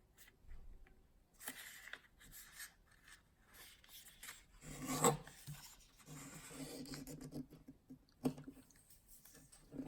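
A square of paper being folded in half and rubbed flat along the crease: soft, intermittent rustling and rubbing.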